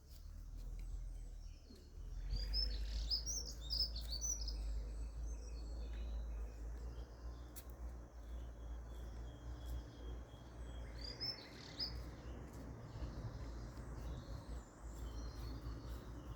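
Wild birds chirping in short clusters of high notes, about two seconds in and again around eleven seconds, over a steady low rumble.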